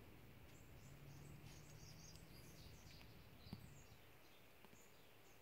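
Near silence, with faint bird chirps in the background and a single soft click about three and a half seconds in.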